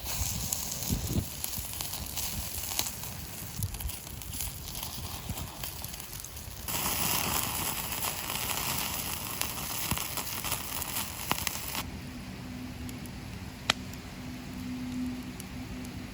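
Wood fire crackling with scattered sharp pops over a steady sizzling hiss, as food grills over the flames. A low steady hum joins in a couple of seconds before the end, and one sharp pop stands out near the end.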